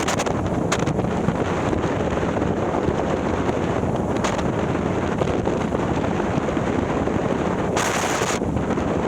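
Harley-Davidson Milwaukee-Eight V-twin, bored out to 130ci, running at riding speed through a ThunderHeader exhaust, heard from on the bike with wind buffeting the microphone. A brief rush of wind comes about eight seconds in.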